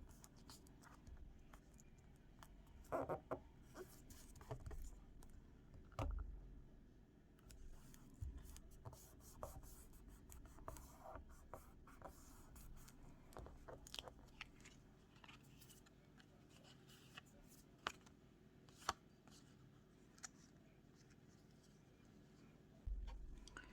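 Paper and craft tools being handled at a worktable: soft rustles and scrapes with scattered light clicks and taps.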